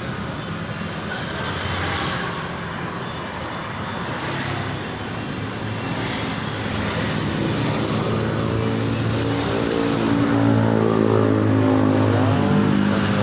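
Motor vehicle engine running over steady background noise, its pitched note getting louder in the second half.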